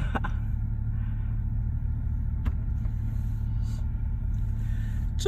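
Steady low rumble of a car's engine running, heard from inside the cabin, with a single sharp click about two and a half seconds in.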